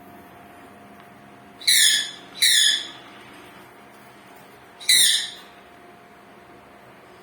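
Sun conure giving three loud, harsh screeches, each falling in pitch: two close together, then a third a couple of seconds later.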